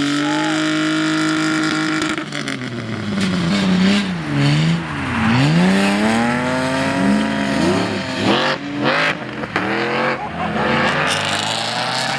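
Car engine held at steady high revs, then revved hard, its pitch swooping down and up several times, with a few sharp cracks about eight to nine seconds in.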